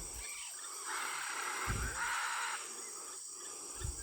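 Birds calling at their evening roost: two harsh, raspy calls in quick succession over a steady high insect chorus.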